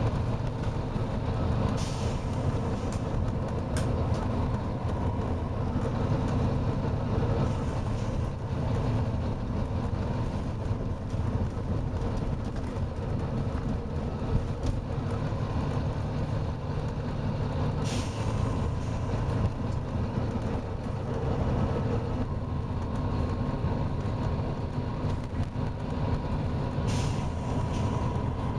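Volvo B9TL bus's six-cylinder diesel engine running steadily while the bus travels, heard from on board, with a few short hisses of air from the bus's air system about two, four, eighteen and twenty-seven seconds in.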